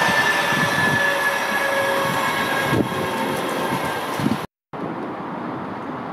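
Noise of a passenger train that has just run through the station at speed, fading as it goes away, with faint high ringing from the rails and wheels. About four and a half seconds in the sound cuts out briefly and comes back as a quieter steady rumble.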